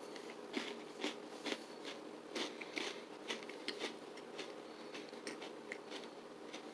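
Chewing a dry, crunchy granola cup: a run of irregular crunches, thickest in the first few seconds and thinning out after.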